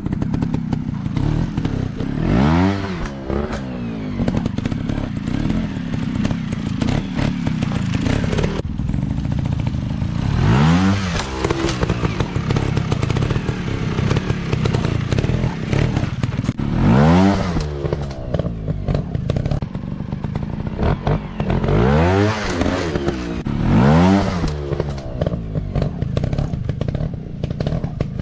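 Small off-road motorcycle engine running with quick throttle blips, each a sharp rise and fall in pitch, about five times (near 3, 11, 17, 22 and 24 seconds in). Between the blips the engine runs lower, with clattering and knocking from the bike.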